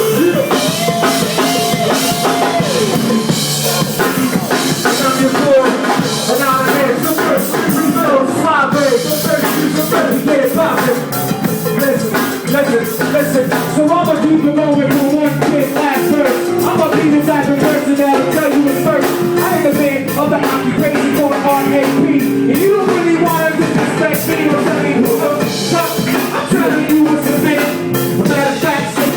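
Live band jamming an improvised groove: drum kit, electric bass and guitar playing together at a steady, loud level.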